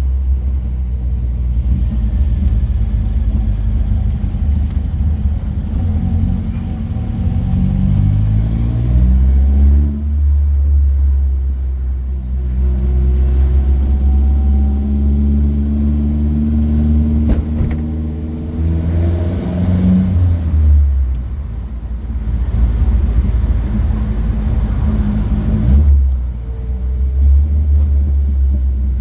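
Classic car engine driving on the road, with a steady low rumble. The engine note rises as it accelerates and drops back at gear changes, a few times, most clearly about ten and twenty seconds in.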